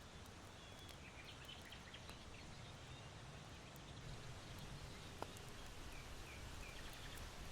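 Faint chirps and twitters of small birds, in two short bursts, over a low rush of wind. Scattered soft crackles from a charcoal fire in an irori hearth, one sharper pop about five seconds in.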